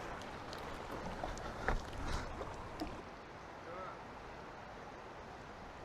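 Faint lapping of lake water, with a few light knocks and clicks near the middle.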